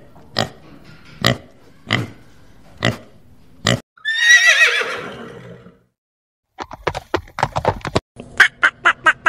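A horse whinnying once: a wavering call that falls in pitch and lasts about a second and a half. Before it come a few sharp knocks about a second apart, and after it a quick run of clicks and knocks.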